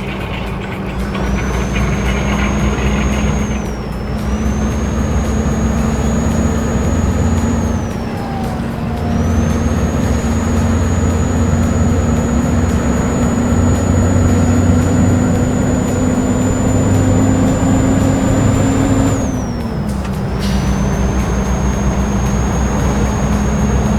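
Truck running on the road, heard from inside the cab: a steady engine hum with a high, thin whine over it. The whine and hum dip briefly three times, about four seconds in, near nine seconds and near twenty seconds, as the gears change.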